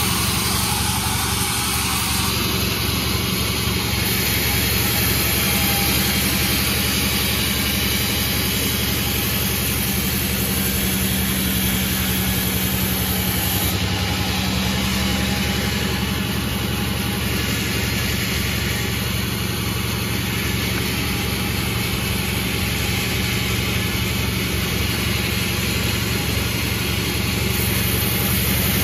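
Panda36 sawmill running steadily, a constant machine hum with a dense hiss over it and no change in pace.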